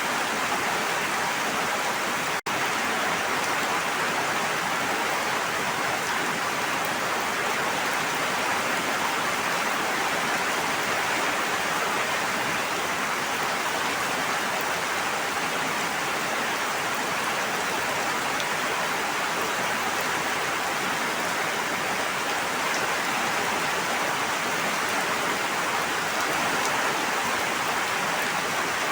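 Steady rushing water, an even hiss like heavy rain or a flowing stream, that cuts out for an instant about two and a half seconds in.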